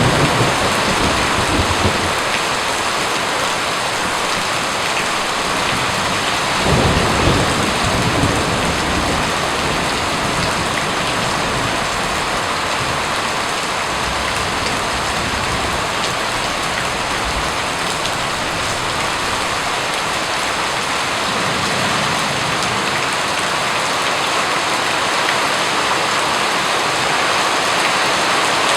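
Steady heavy rain falling, with low thunder rumbling at the start and again about seven seconds in.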